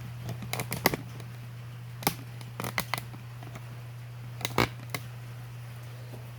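Sharp metallic clicks and clinks from hand tools on the engine's fittings, in short groups of two to four, over a steady low hum.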